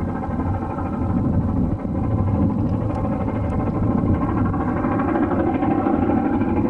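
LMS Black 5 4-6-0 steam locomotive working along the line, a steady, dense, low-pitched running sound.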